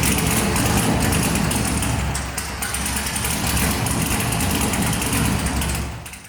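LS V8 engine in a BMW E36 drift car running at a steady low speed, loud and rough, fading out near the end.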